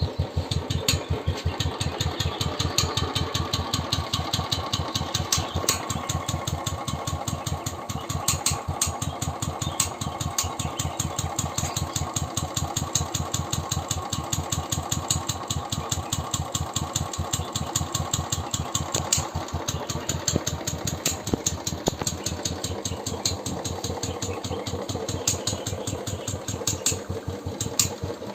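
2019 Royal Enfield BSIV motorcycle engine idling steadily, with a tick-tick-tick running over its even beat. The owner suspects a loose decompressor on that side of the engine.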